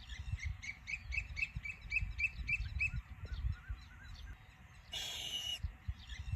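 Birds calling: a quick run of short, evenly repeated calls, about three a second, with one harsh screech about five seconds in, over a low rumble.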